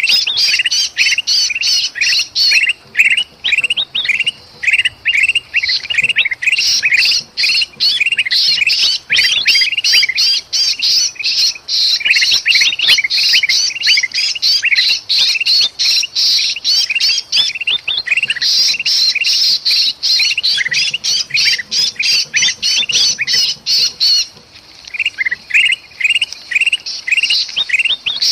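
Bulbuls calling in alarm: kutilang emas scolding and a trapped sooty-headed bulbul (kutilang) giving distress calls. The result is a dense, rapid run of harsh squawking notes that breaks off briefly a few times.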